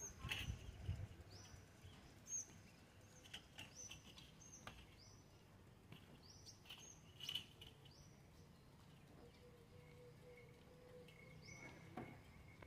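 Faint, short, high bird chirps repeating about once a second, with a pause before they return near the end, over a quiet outdoor background.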